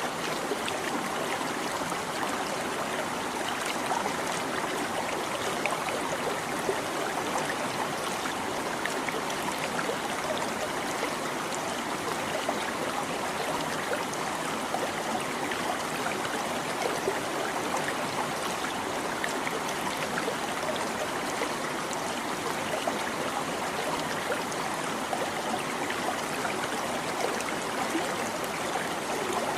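A small stream babbling and trickling steadily over stones.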